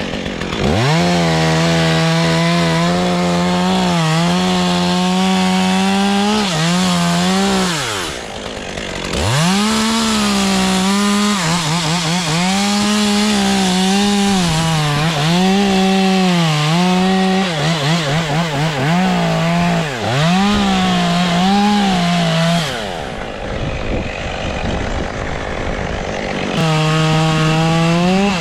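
Chainsaw cutting through a poplar limb, its engine pitch sagging and recovering again and again as the chain bites under load. The saw drops off briefly about eight seconds in and again for a few seconds near the end before revving back up.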